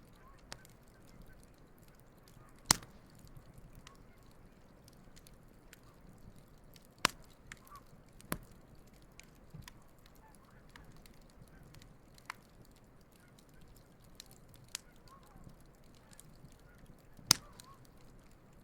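Wood campfire burning: irregular sharp crackles and pops, a few of them loud, over a low steady hiss. Geese honk faintly in the background.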